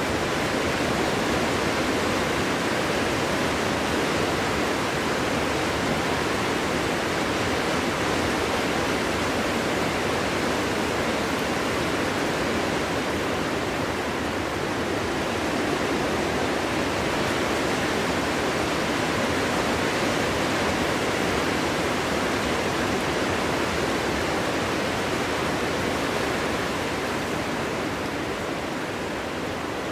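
Steady rushing wind, strong and unbroken, without gusts standing out; it eases off slightly near the end.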